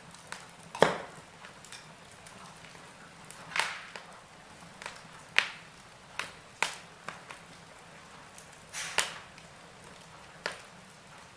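Wood fire in a fireplace crackling: irregular sharp pops and snaps over a faint hiss. The loudest pops come about a second in and again late on.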